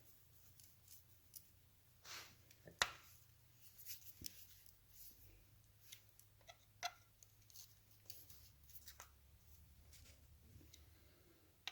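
Faint, scattered clicks and light metallic taps of hand tools and small parts as screws are driven in and tightened, with one sharper click about three seconds in, over a faint steady low hum.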